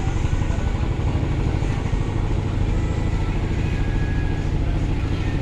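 Ship's engine running steadily: a low, even drone.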